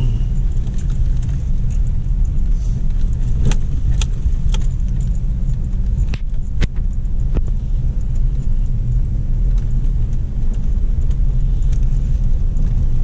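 Strong wind buffeting the microphone over rough surf on a stormy sea, a loud steady low rumble. A few light clicks come in the middle.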